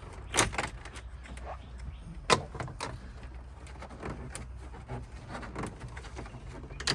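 Plastic dash trim clicking and knocking as the AC control panel surround in a Jeep Wrangler is handled and worked loose with its screws out. There are a few sharp clicks, the loudest about two seconds in, over a steady low hum.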